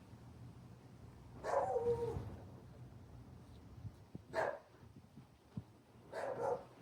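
A dog barks three times, the first bark longer and drawn out, the others short.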